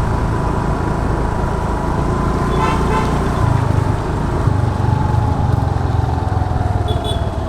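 A motor scooter ridden through traffic, its engine whine steady and then slowly falling in pitch as it slows. A vehicle horn toots briefly about three seconds in.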